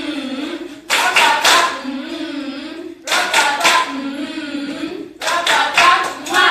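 A group of voices singing a song together, broken about every two seconds by a quick run of four or five hand claps in time with it.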